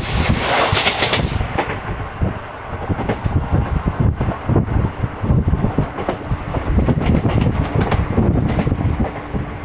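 Passenger train running at speed, its wheels rumbling on the rails, heard through an open window with wind buffeting the microphone.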